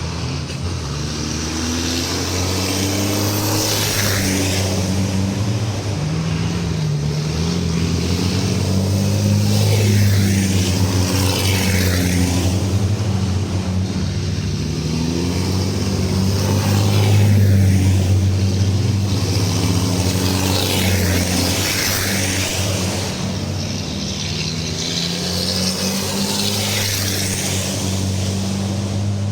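Racing trucks' diesel engines running on a circuit, with a steady low drone whose pitch shifts as they change speed. Several trucks pass in turn, each pass swelling and fading.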